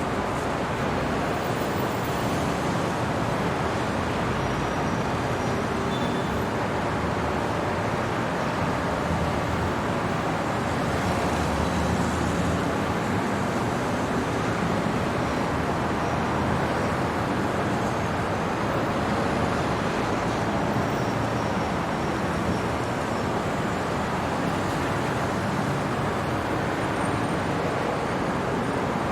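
Steady city traffic noise at night, a constant wash of passing road vehicles with no single event standing out.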